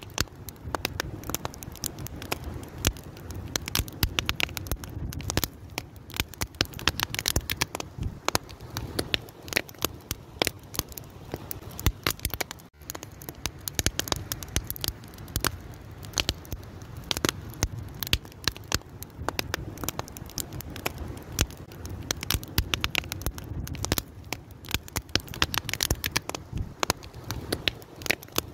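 Fire crackling, with dense, irregular sharp pops over a steady low rumble of flames.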